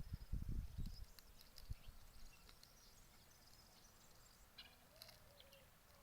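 Faint calls from chickens: scattered high chirps and a short, wavering call near the end. A few dull low thumps come in the first second and are the loudest thing heard.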